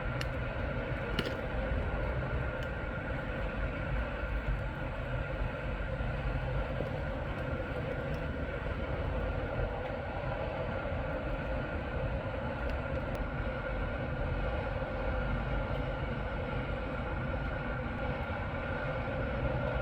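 Steady vehicle and road noise: a continuous low rumble with a constant hum and hiss that does not let up.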